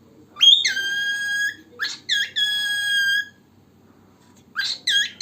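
Male cockatiel whistling its song. A rising note is held steady, then comes a short note and a second long held note, and after a pause of about a second, quick rising-and-falling whistled notes near the end.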